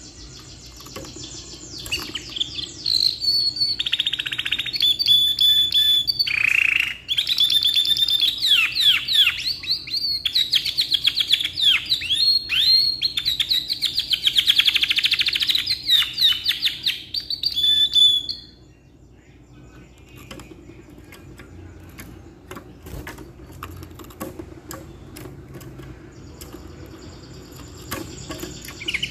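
Domestic canary singing a long, loud song of rapid trills and rolls, breaking off about 18 seconds in; after that only faint scattered ticks until it starts singing again near the end.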